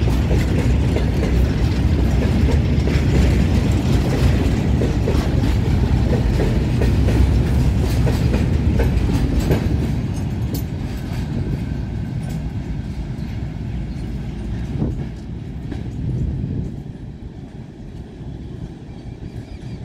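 Goods train of covered wagons rolling past close by: a heavy low rumble with the clickety-clack of steel wheels over rail joints. About halfway through the last vehicle passes and the rumble fades as the train moves away.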